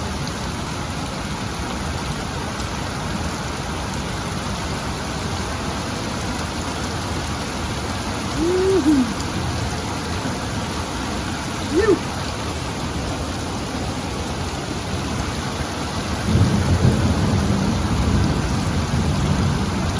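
Heavy rain pouring down steadily on the ground. A short low sound comes twice in the middle, and a louder low rumble rises in the last few seconds.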